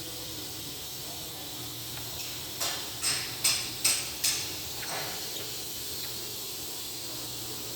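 Steam hissing steadily from a Ford Taurus engine's cooling system, with a quick run of five sharp spits about two and a half to four and a half seconds in.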